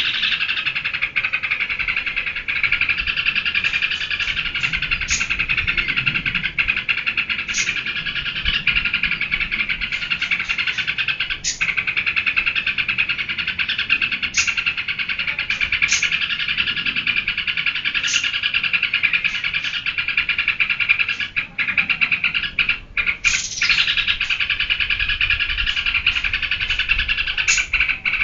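Yellow-vented bulbul (trucukan) singing non-stop in a dense, continuous run of quick chattering notes, with a few brief breaks about three-quarters of the way through.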